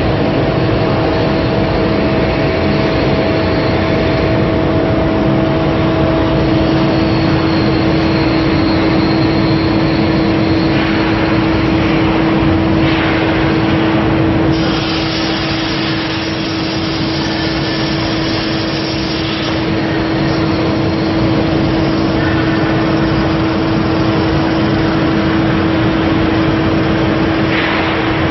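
CNC sheet-metal cutting machine in operation: a loud, steady hiss with a constant humming tone underneath. About halfway through, the high hiss changes and the level dips slightly.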